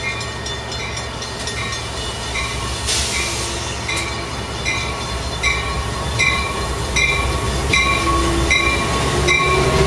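Metrolink diesel locomotive pulling into the station, its bell ringing in even strokes about one and a half times a second over the engine's rumble, which grows louder as it nears. There is a brief hiss about three seconds in, and a rising squeal comes in near the end.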